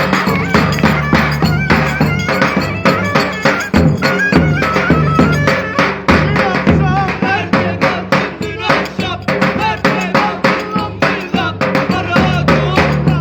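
Live band dance music: a wavering, ornamented lead melody over a fast, steady drum beat and bass.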